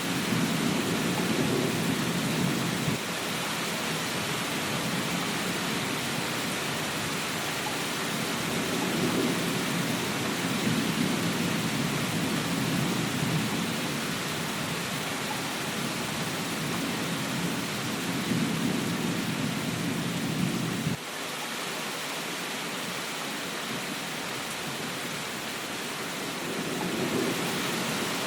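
Steady rain falling, a dense even hiss, with deep rumbles that swell and fade several times underneath. The rumbling stops abruptly about three quarters of the way through, leaving only the rain.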